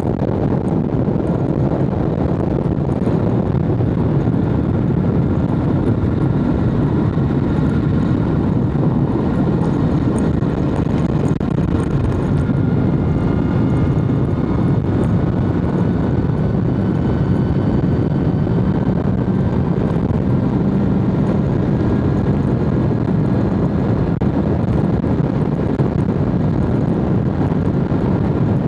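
BMW S1000RR's inline-four engine running steadily under way, its note mixed with a dense rush of wind and road noise; the engine pitch climbs slowly through the middle of the stretch.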